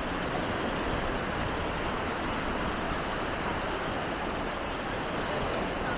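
Steady, even wash of sea surf breaking on a sandy beach.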